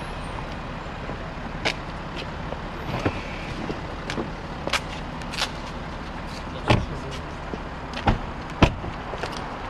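Scattered sharp clicks and knocks, irregular and about one or two a second, over a steady room hum; the loudest come in the second half.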